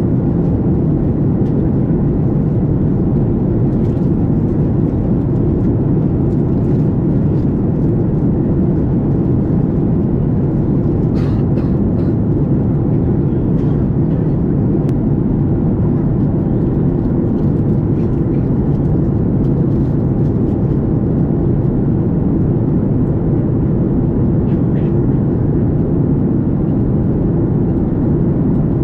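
Steady cabin noise inside a Boeing 737 MAX 8 in flight: the even, low rush of air and CFM LEAP-1B engines, with a few faint clicks about eleven seconds in.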